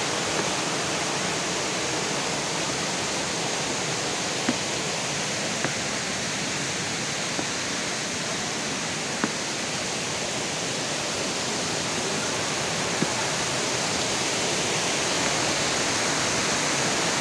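Dlundung waterfall's falling water giving a steady, unbroken rush, with a few faint clicks scattered through it.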